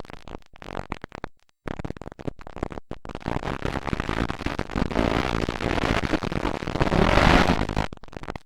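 Motocross dirt bike engines racing past, harsh and distorted on a camcorder microphone. The sound cuts in and out in the first couple of seconds, then builds to its loudest about seven seconds in as a bike passes close, and drops away sharply near the end.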